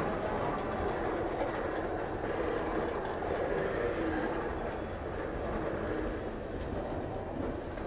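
Freight train tank cars rolling past close by: the steady noise of steel wheels running on the rails, holding even throughout.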